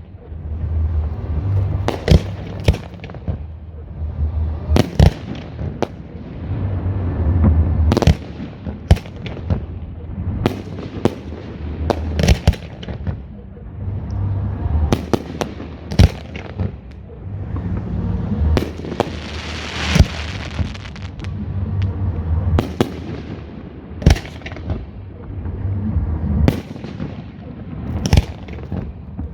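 Fireworks display: shells bursting in a rapid, irregular string of sharp bangs over a low rumble. About two-thirds of the way through, a longer hiss swells up and fades.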